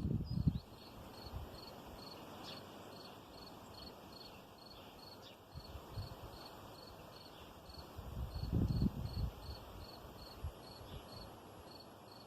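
A cricket chirping steadily at an even pace, about two or three chirps a second, with a low rumble rising and fading about eight seconds in.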